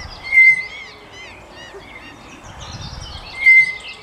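Tapir giving two short, shrill whistles about three seconds apart, against a background of birds chirping.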